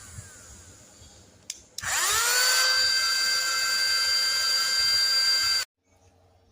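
Cordless handheld vacuum cleaner's motor, winding down at first, then a click as it is switched on about one and a half seconds in. The motor spins up quickly to a steady high whine, which cuts off suddenly near the end.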